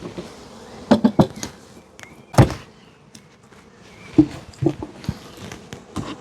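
A series of sharp wooden knocks and thuds, several in quick succession about a second in and the loudest about two and a half seconds in, as beehive parts are handled while the hive is closed up after an inspection.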